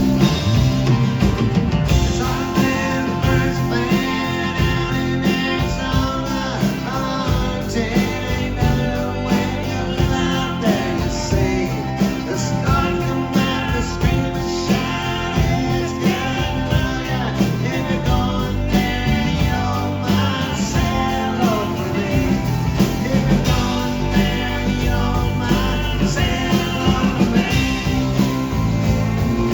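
Live country-rock band playing an instrumental passage, led by guitar over a steady beat.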